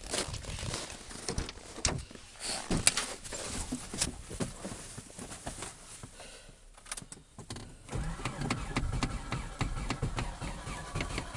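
Scattered clicks and knocks, then about eight seconds in the Subaru Impreza's cold flat-four begins turning over at −20 °C with a steadier, denser mechanical sound.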